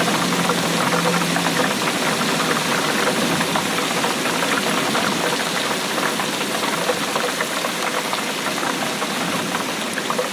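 Steady rainfall, a dense patter of countless drops without a break.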